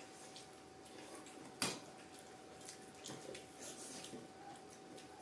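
Quiet close-up eating sounds: soft wet chewing and smacking with small clicks, and one sharp click about a second and a half in. A faint steady hum sits underneath.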